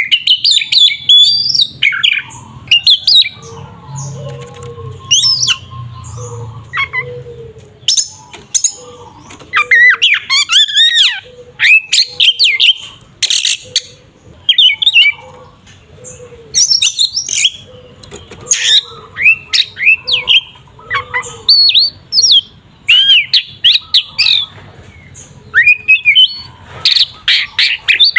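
Oriental magpie-robin (kacer) singing loudly in its aggressive fighting song: rapid bursts of varied, sliding whistles mixed with harsh, squawk-like notes, broken by short pauses.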